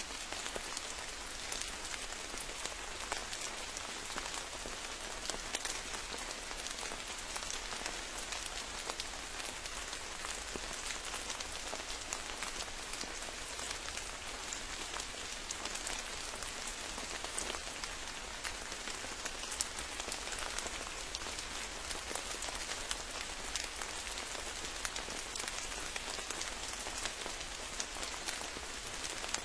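Steady rain falling, with many small drops pattering close by.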